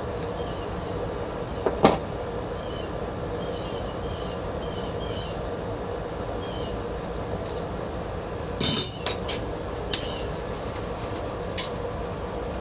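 Loose metal parts clinking against each other a few times, the loudest about two-thirds of the way through, over a steady background hum.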